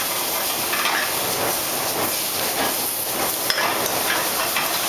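Chicken pieces and onions frying in oil in a sauté pan: a steady sizzle with a few faint ticks from spattering. The chicken skin is searing and the onions are browning toward caramel.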